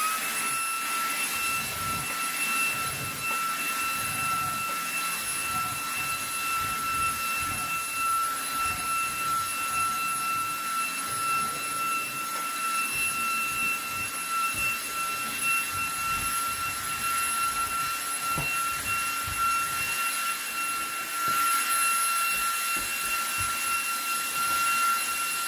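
eufy HomeVac H30 Mate cordless handheld vacuum running on max power with its motorized brush fitted, sucking up a rug. Its motor gives a steady high whine over an uneven low rumble from the brush working the rug.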